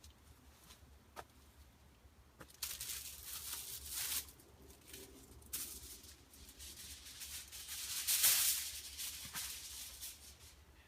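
Rustling and light handling noises in several short bursts, with scattered clicks, loudest about eight seconds in.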